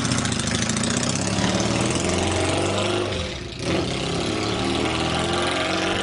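Yamaha XS650 chopper's air-cooled parallel-twin engine running, with a brief drop in sound about halfway through before it picks up again.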